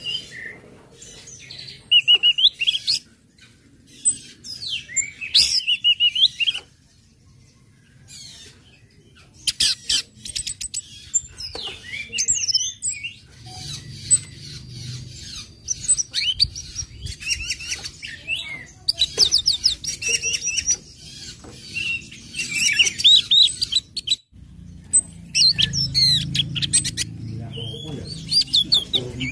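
Orange-headed thrush singing: varied phrases of quick whistled slurs and rapid sharp chipping notes, in bursts broken by short pauses.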